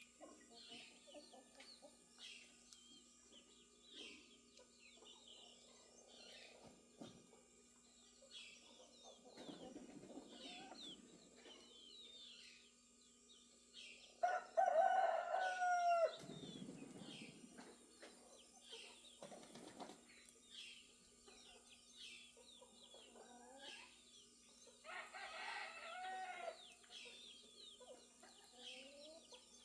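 Rooster crowing twice, loudest about halfway through and again more softly near the end, over hens clucking and small birds chirping throughout.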